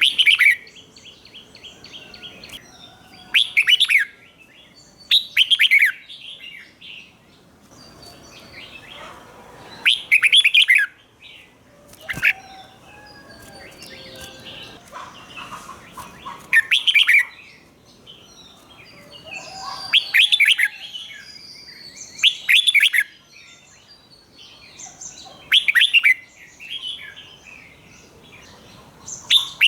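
Red-whiskered bulbul singing loud, short phrases about every two to four seconds, with softer chirps in between. This is the doubled 'berl' song style that Thai bulbul keepers play to young birds for them to copy.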